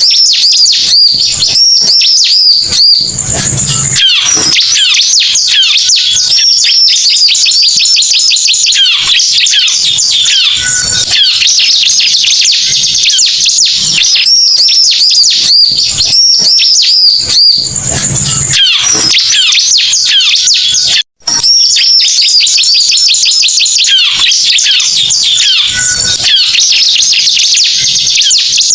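Bar-winged prinias (ciblek) singing, a dense run of rapid high chirps and trills played as a lure call. The same stretches come round again and again, and the sound drops out for an instant about two-thirds of the way through.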